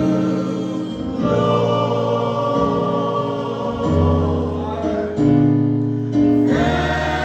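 Gospel choir singing with instrumental accompaniment, held chords changing about every second over a sustained bass.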